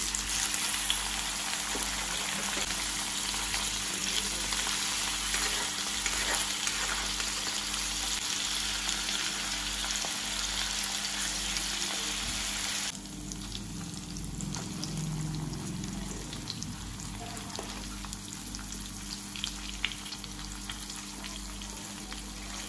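Paneer cubes shallow-frying in hot oil in a steel kadai: a steady, dense sizzle that drops suddenly to a quieter sizzle about halfway through.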